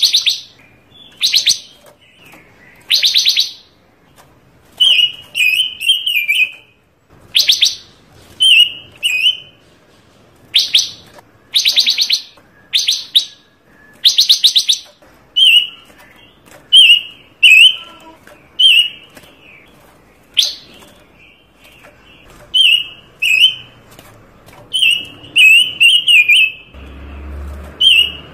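A panca warna songbird singing in full voice: loud, fast rattling trills alternate with short, varied warbled chirps, one phrase every second or two with brief pauses between. A faint low rumble comes in near the end.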